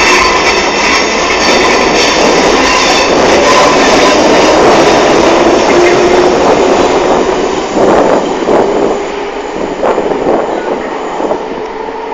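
London Underground C stock train running on the rails: a loud, steady rumble of wheels and running gear with a thin wheel squeal over it. The noise eases off after about eight seconds, with a few sharp clicks from the track.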